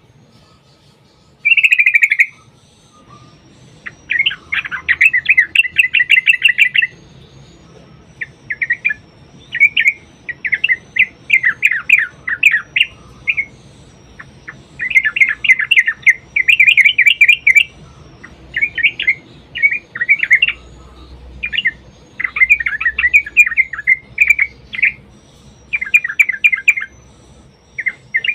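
Yellow-vented bulbul (trucukan) singing: loud, bubbly chattering phrases repeated in quick runs with short pauses between them.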